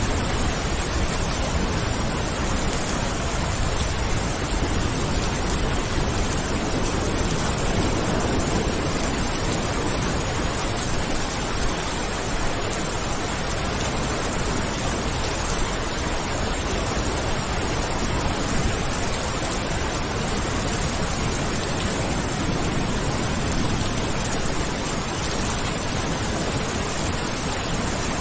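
Steady heavy rain, an even hiss with no breaks or separate drops standing out.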